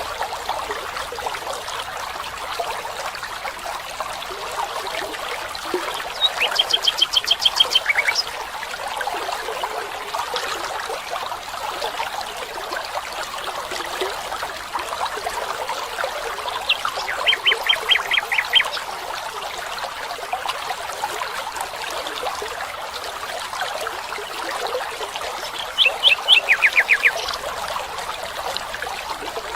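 Steady running water of a stream, with a bird singing a short, rapid trill of repeated high notes three times, several seconds apart.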